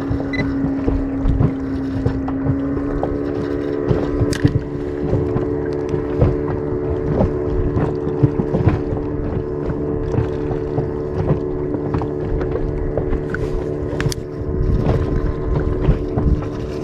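Outboard motor of a small inflatable boat running steadily under way, its note shifting slightly about two seconds in, with wind buffeting the microphone.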